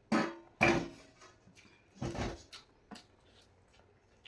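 Eating sounds: three short, loud bursts of mouth and chewing noise with quieter small clicks between them.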